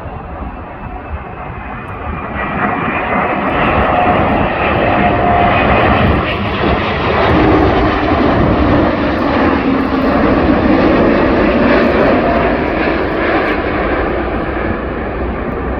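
Emirates Airbus A380-861 on final approach, its four Engine Alliance GP7200 turbofans at approach power as it flies past. A steady jet roar builds over the first few seconds, holds loud through the middle with a whine that slides down in pitch, and eases off near the end.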